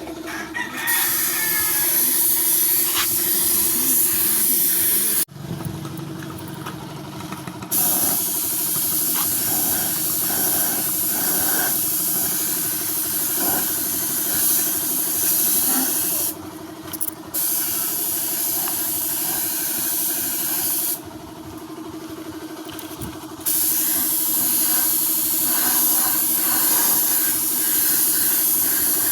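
A spray hissing steadily, cutting off three times for one to three seconds before starting again.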